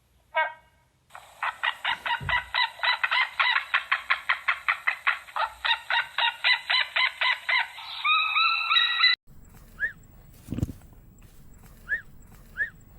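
Domestic fowl calling in a rapid, even series of about four to five calls a second, ending in a few longer calls before it cuts off suddenly. After that comes a quieter stretch with a few short, rising bird chirps.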